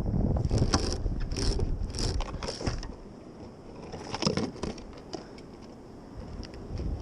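Wind buffeting the microphone on a kayak, with a run of short scrapes, clicks and knocks from gear being handled in the first three seconds and again about four seconds in.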